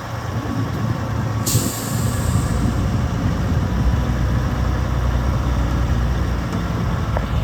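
Heavy truck diesel engine running steadily, with a short sharp burst of air hiss about a second and a half in, typical of the air brakes being released.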